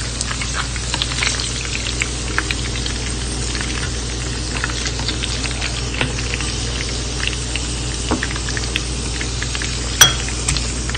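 Pork belly slices pan-frying in oil: a steady sizzle full of small crackling pops. A single sharp clack near the end.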